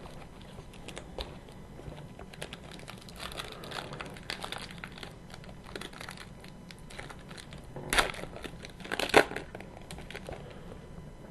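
Crinkling and tearing of a hockey trading-card pack wrapper being opened by hand, with small clicks and rustles of cards being handled. Two louder crackles come about eight and nine seconds in.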